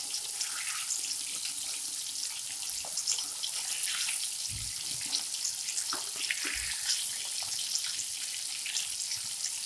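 Surmai (king mackerel) steaks shallow-frying in hot oil: a steady sizzle full of small crackling pops, as a spatula turns the pieces over. Two dull low thumps come about two seconds apart midway through.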